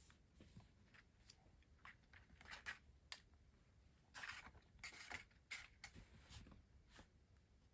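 Faint handling sounds of stationery and its packaging being unboxed: a scatter of small clicks and short rustles, busiest in the middle.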